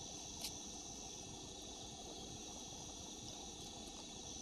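Steady, high-pitched insect chorus, with a faint click about half a second in.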